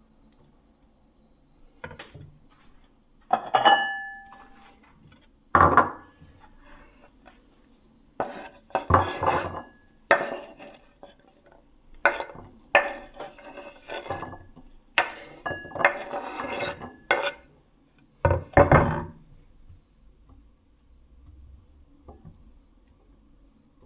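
Kitchenware clattering: dishes and metal utensils set down and knocked together in a string of separate knocks, some clinks ringing briefly. The clatter is busiest in the middle, with a last loud knock near the end, after which only faint sounds remain.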